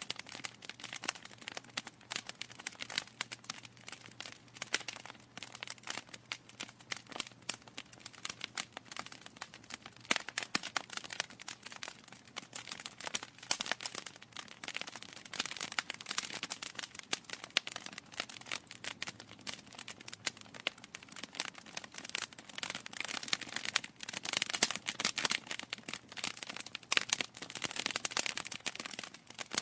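Wood fire in a fireplace crackling and popping continuously, with irregular sharp snaps over a soft hiss and busier clusters of pops now and then.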